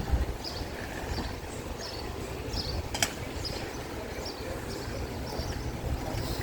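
Wind rumbling on the microphone of a moving bicycle, with short high chirps repeating about twice a second and a single sharp click about three seconds in.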